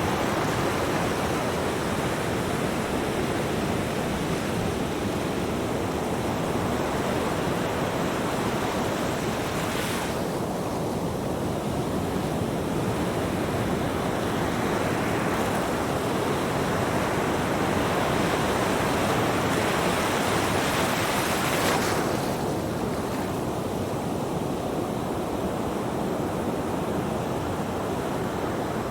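Ocean surf washing onto a beach: a steady rush of breaking waves. The sound shifts abruptly twice, about ten and twenty-two seconds in.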